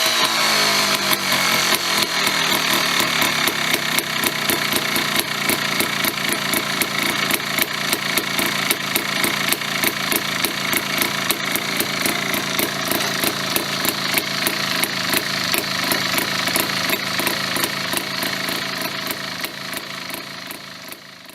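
GasGas trials motorcycle with its newly fitted JTR250 two-stroke engine, settling from a rev into a steady, evenly pulsing idle. The engine sound fades out near the end.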